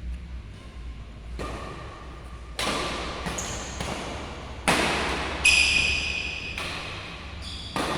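Badminton rally: rackets smacking a shuttlecock again and again, about eight sharp hits at an uneven pace, each ringing out in the echo of a large sports hall. A high squeal lasting about a second comes about halfway through, with short squeaks near the end.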